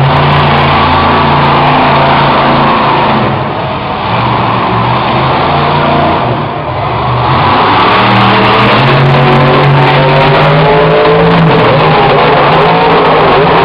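Monster truck engine revving hard, easing off briefly twice in the middle, then held at high throttle with its pitch climbing.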